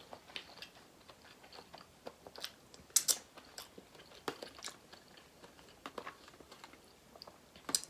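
A person eating close to the microphone, biting and chewing a boiled chestnut mushroom, with scattered soft wet clicks and smacks. The loudest bite comes about three seconds in.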